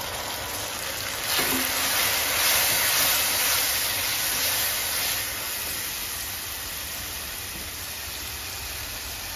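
Wet ground masala paste sizzling and frying in hot oil with browned onions in a kadai while it is stirred. The sizzle swells about a second in and settles to a steadier, slightly quieter hiss after about five seconds.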